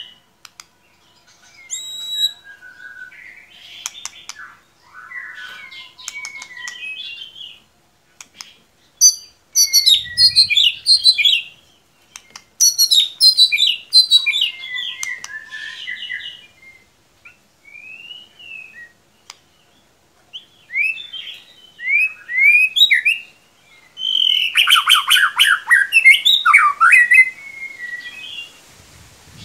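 White-rumped shama (murai batu) song played as a lure recording: varied phrases of clear whistles, quick down-slurred notes, chatter and clicks, coming in loud bursts with short pauses between.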